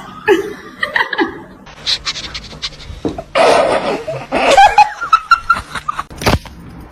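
People laughing, with a loud breathy burst a little past the middle and a few sharp clicks.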